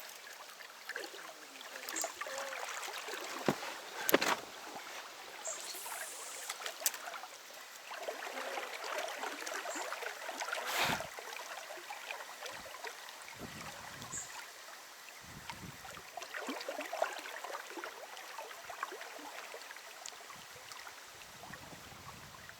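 River water gurgling and lapping around a small boat, with a few sharp clicks and knocks.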